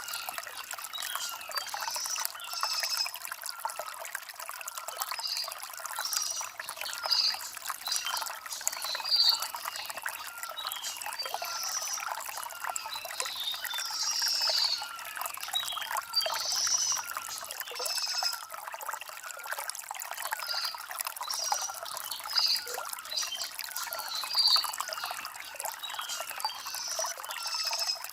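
Shallow stream water trickling and gurgling over river stones.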